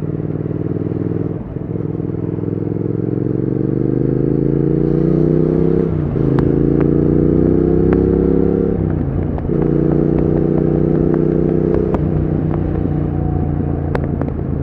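Triumph Speed Twin 1200's 1200 cc parallel-twin engine and exhaust under acceleration: the note rises, drops at a gear change, rises again, and drops at a second upshift. It then holds a steady note before easing off, with a few sharp cracks near the end.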